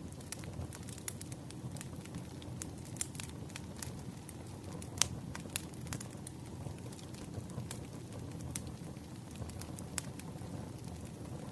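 Wood fire crackling: a steady low rush of burning logs with scattered sharp pops and snaps, the loudest about halfway through and again near the end.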